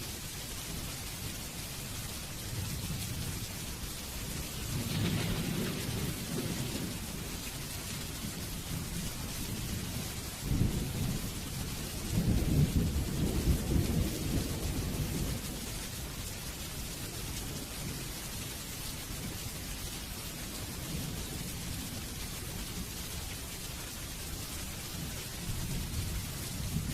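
Steady rain hissing, with rolls of thunder rumbling low: a softer one about five seconds in and a louder, longer one from about ten seconds in.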